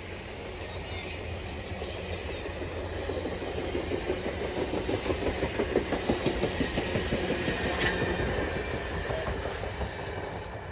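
A train passing close by, its wheels clicking over the rail joints in a quick, even rhythm over a steady rumble. The clicking builds, peaks in the middle and fades as the cars go by.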